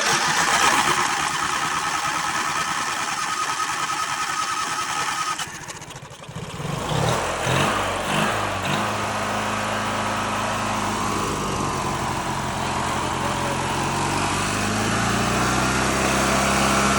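Lawn mower engine cranked by its starter motor, with the solenoid jumped by hand, whining steadily for about five seconds; after a short pause it catches and runs steadily, picking up a little speed near the end.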